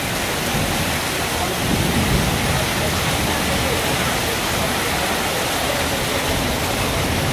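Heavy rain falling in a steady hiss, with runoff pouring off the edge of a sheet-roof awning.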